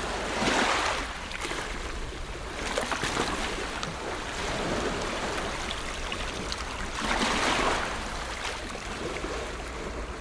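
Ocean waves washing onto a shore in a steady hiss, with three larger waves breaking and surging, the loudest about half a second in and around seven seconds in.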